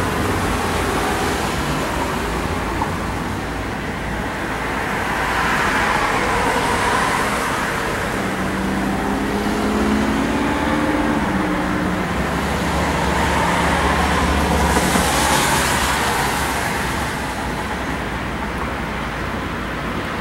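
Road vehicle noise: steady tyre and engine rumble with slow swells. A vehicle's engine tone rises and then falls about halfway through, as one passes or changes speed.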